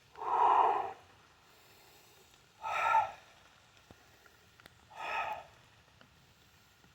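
A man breathing hard after a set of kettlebell snatches: three heavy exhales about two and a half seconds apart, the first the longest and loudest.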